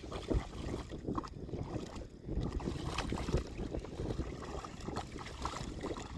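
Shallow water sloshing and splashing in irregular bursts, with wind buffeting the microphone.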